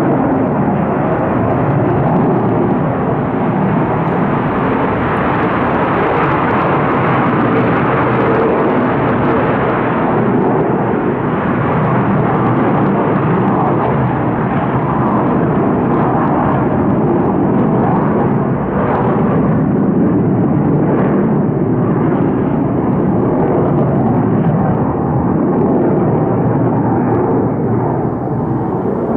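Military fighter jet taking off, its jet engines giving a loud, steady roar that holds for the whole stretch.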